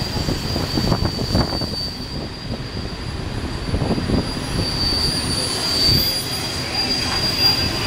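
Passenger train rolling through a station: a steady rumble of wheels on the rails with irregular low knocks, and a constant high wheel squeal that grows louder about two thirds of the way through.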